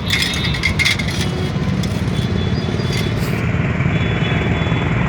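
Steady low rumble of motor vehicles running, with light clatter and scraping of metal parts being handled in the first second and a half and again about three seconds in.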